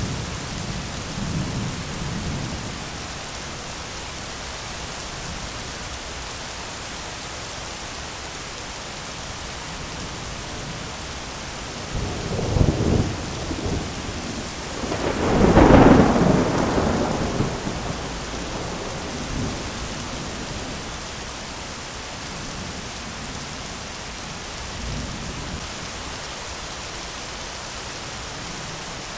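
Thunderstorm: steady heavy rain hiss, with distant low thunder rumbling at the start and a louder peal of thunder that builds about twelve seconds in, cracks and rolls loudest around the middle, then fades back under the rain.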